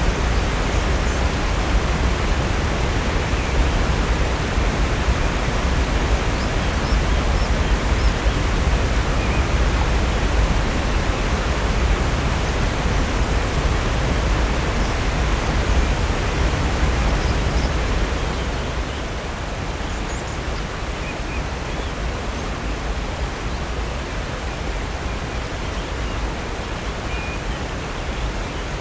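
Steady rush of Upper North Falls, a 65-foot waterfall, pouring into Silver Creek. The roar is heaviest in the low end and becomes a little quieter about 18 seconds in.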